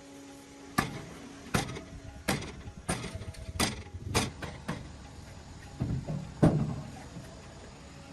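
A run of about nine sharp knocks at irregular spacing, a few ringing briefly, the loudest near the end. A steady low hum runs under the first knocks and stops about two seconds in.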